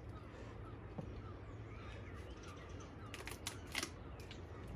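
Faint backyard ambience: distant birds chirping over a low steady hum, with a few sharp clicks about three seconds in.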